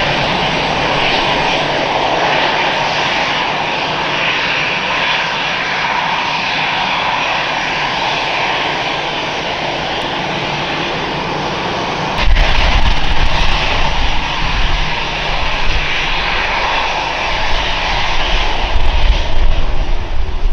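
Jet airliner engines, a loud steady noise. About twelve seconds in a deep low rumble comes in, and the sound grows louder and more uneven.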